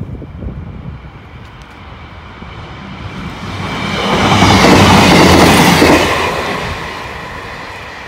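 Class 158 diesel multiple unit passing on the line: engine hum and wheel-on-rail noise swell to a loud peak about five seconds in, then fade as it moves away.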